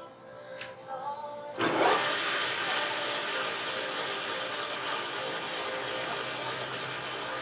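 A machine motor switches on about a second and a half in, its pitch rising briefly as it gets up to speed, then runs steadily with a loud hissing noise. Soft background music before it starts.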